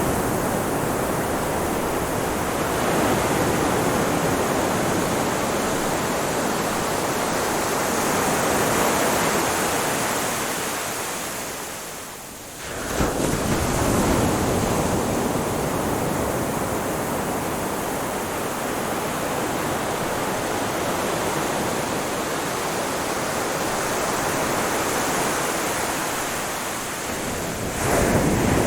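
Ocean waves breaking and washing on a shore, a continuous surf noise that slowly swells and eases. About twelve seconds in it fades briefly, then comes back abruptly.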